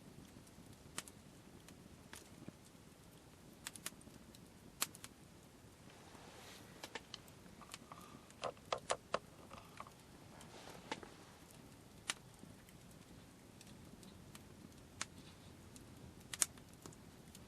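Scattered sharp clicks and pops at irregular intervals over a low steady background, with a quick cluster of clicks about halfway through and brief soft rustling around it.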